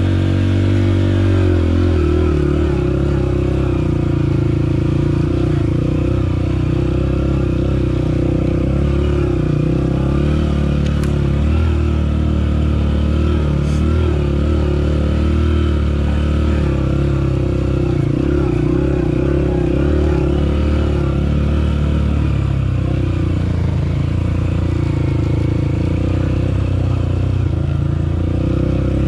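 Off-road motorcycle engine running as it is ridden, its revs rising and falling.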